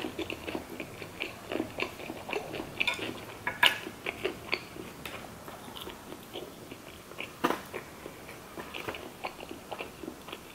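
A person chewing sushi with the mouth closed, heard close up: a steady stream of small wet smacks and clicks, with a couple of sharper clicks, one about three and a half seconds in and one about seven and a half seconds in.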